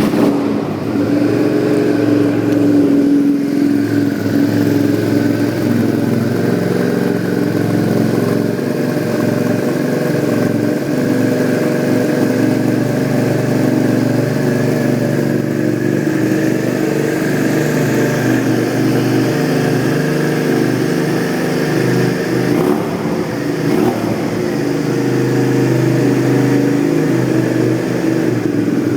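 Suzuki SV650's 90-degree V-twin through a Viper aftermarket exhaust, firing up right at the start and then idling steadily and loudly.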